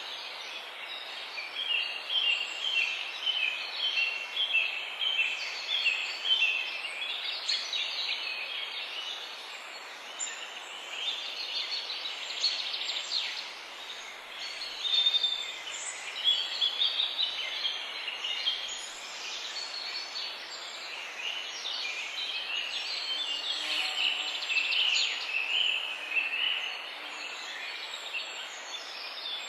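Several songbirds singing and calling at once, many short chirps and rapid trills overlapping, over a steady background hiss.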